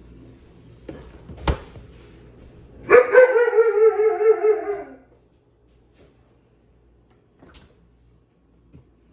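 A dog's drawn-out, wavering whine of about two seconds that slides down in pitch at the end. It comes after a single sharp click.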